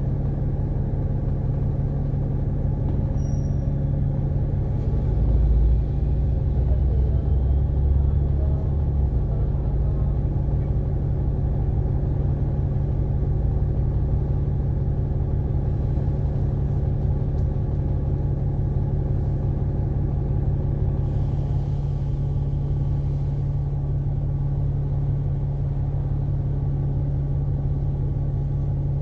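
Alexander Dennis Enviro500 MMC double-decker bus running on the road: a steady low engine hum with road noise, swelling louder for a few seconds about five seconds in.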